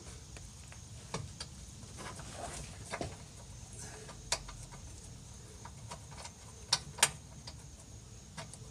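Scattered light metallic clicks and clinks of a 12 mm bolt and a sway bar bushing bracket being handled while trying to start the bolt by hand, with two sharper clicks close together near the end.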